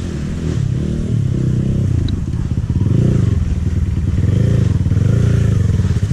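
Dirt bike engine running loud, revved up and down several times in a row, its pitch swelling and dropping back with each blip of the throttle.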